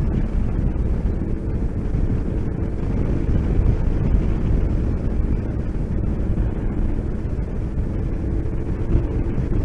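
A motorcycle on the move: steady wind noise on the microphone over the engine running evenly.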